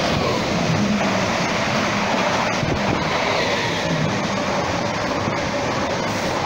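A train running past close by: loud and steady, with faint steady tones under the running noise.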